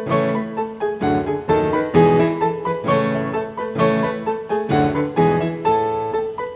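Background piano music: a continuous run of notes.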